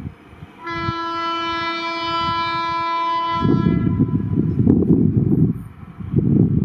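Indian Railways locomotive sounding one steady horn blast for about three seconds, with low rumbling from the train before and after it.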